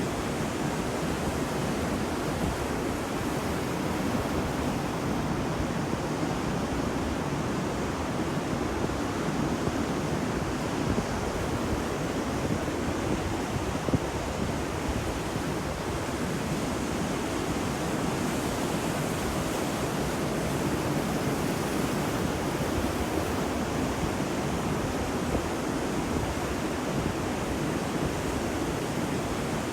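Waves washing onto a beach: a steady rush of surf with no distinct breaks.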